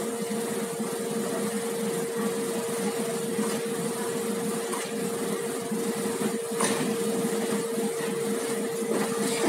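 Running noise of a passenger train from its open coach door: a steady rush with a steady hum, and a few faint knocks of wheels over the rails.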